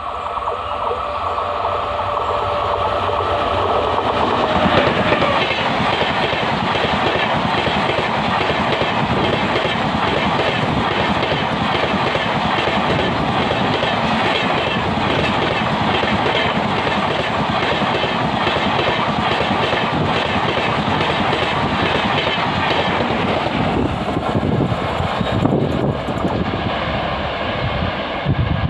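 Amrit Bharat Express passing at speed. Its electric locomotive's horn sounds for the first four or five seconds. Then the coaches run by close to the track with a steady rumble and a fast, rhythmic clatter of wheels over the rails.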